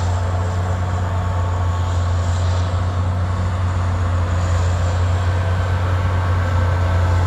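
A vehicle engine running with a steady, loud low hum that does not change in pitch, over a light hiss.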